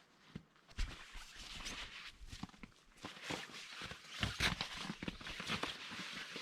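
Close, irregular rustling and crinkling with soft thumps, as of camping gear or fabric being handled close by.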